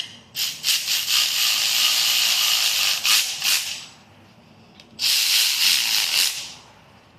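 Air ratchet running in two bursts, the first about three and a half seconds long and the second shorter, snugging down the tension bolts on a Mazda 13B rotary engine's housings. The tool is run only to snug the bolts, not to torque them.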